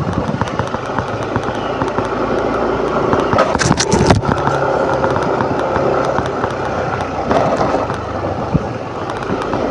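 Motor scooter running on the climb up a mountain road, its engine hum under a constant rush of wind and crackling rattles on the microphone. A louder rush comes about three and a half seconds in and lasts under a second.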